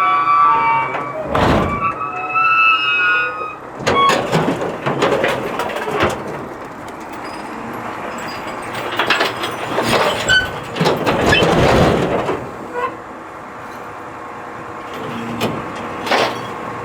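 Garbage truck at work: metal squealing in the first few seconds, then spells of clattering and banging over a steady running truck.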